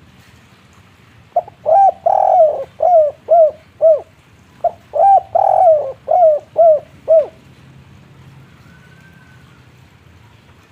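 Spotted dove cooing in two phrases. Each phrase has a short note, a longer wavering coo, then three short clipped coos at the end: the 'kuk 3' song pattern that dove keepers prize.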